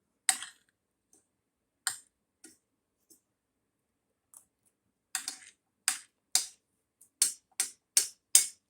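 Sharp clicks of cutlery against plates during a meal: a few scattered ones, then a quicker run of about seven near the end.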